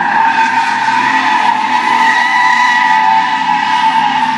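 Spinning truck tires squealing loudly and steadily against pavement, a high screech held for the whole stretch, with the engine running under it.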